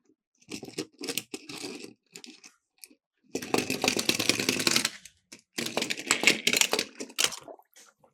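Miniature toy cars rattling as they roll down a hard slope, in several bursts. The longest and loudest run from about three to five seconds in and again from about six to seven and a half seconds.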